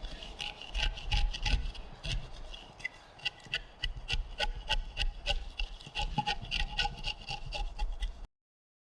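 Steel chisel paring and scraping wood inside a timber mortise: a dense run of quick scrapes and clicks with a faint metallic ring. It cuts off suddenly near the end.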